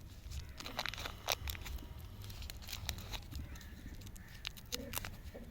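Plastic wrapping being handled: scattered crinkles and small sharp clicks.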